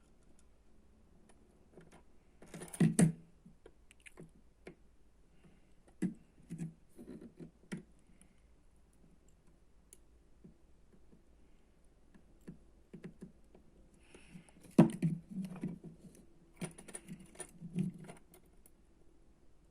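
Irregular clicks and taps of small hard objects being handled, in two clusters: one about three seconds in and a longer, busier one past the middle.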